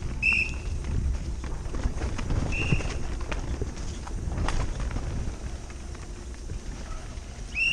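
A 2019 Santa Cruz V10 downhill mountain bike on Maxxis DHR II tyres is ridden fast down a wet, muddy trail. A steady low rumble of wind and tyres on dirt runs under clattering knocks as the bike hits bumps. Two short high squeals come about a quarter second in and again about two and a half seconds in.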